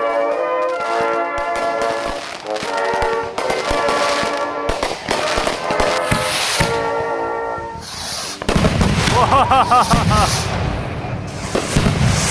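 Consumer fireworks crackling and popping in quick, irregular bursts over music with held notes; about eight and a half seconds in the firing gets louder and denser, with heavier bangs and a warbling whistle.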